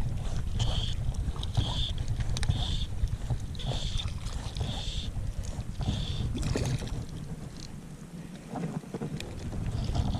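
Wind rumbling on the microphone, easing briefly near the end. A short high-pitched note repeats about every three-quarters of a second through the first half.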